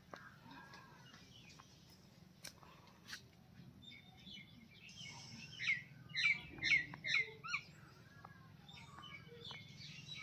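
Birds chirping, with a run of about six quick, falling chirps a little past halfway, over a faint low steady hum.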